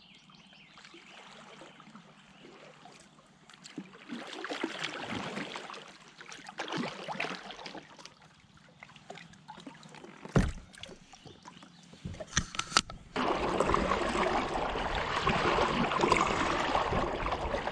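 Kayak paddle strokes: the blades dip and splash in the lake water with trickling drips between strokes. There is a sharp knock about ten seconds in and a few more a couple of seconds later, and from about thirteen seconds in a louder, steady rush of water noise.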